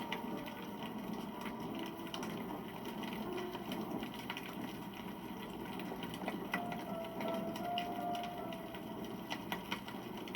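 Wood campfire burning, with a steady rush of flame and frequent irregular crackles and pops. A thin whistling tone rises out of it for a couple of seconds about six seconds in.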